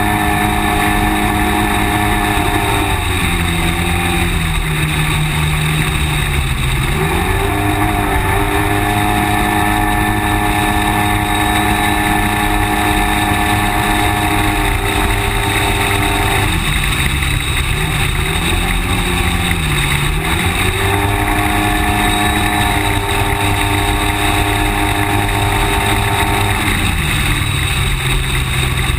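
Polaris RZR S side-by-side's engine running as it drives, its pitch holding steady, then sagging and climbing back twice, and dropping to a lower steady note near the end.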